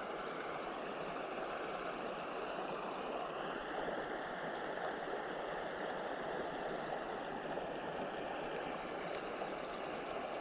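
Mountain brook running steadily, a constant rush of moving water.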